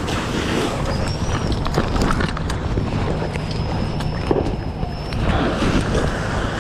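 Fire engine running at the pump with a steady low rumble, irregular knocks and clatter of equipment or footsteps, and a thin high whine that starts about a second in and stops near five seconds.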